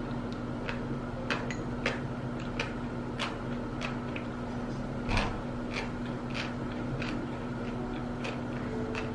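Scattered light clicks and clinks of tableware and utensils over a steady low hum, with one louder knock about five seconds in.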